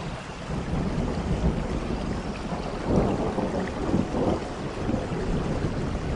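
Thunder rumbling low over steady rainforest rain, swelling to its loudest about three to four and a half seconds in.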